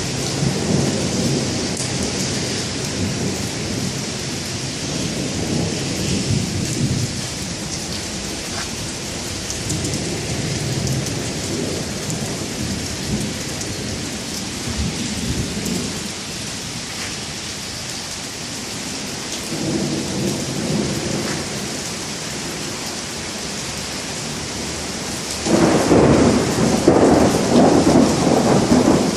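Thunderstorm: steady rain hissing, with low thunder rolling in and out in waves. Near the end a sudden, louder peal of thunder breaks in and keeps rumbling.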